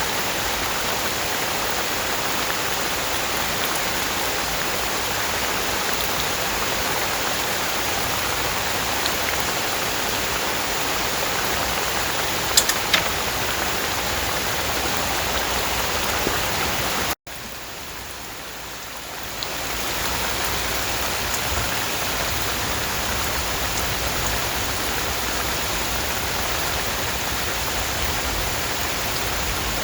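Steady rain falling, an even hiss. It drops away abruptly about seventeen seconds in and builds back up a couple of seconds later. A few faint ticks come near the middle.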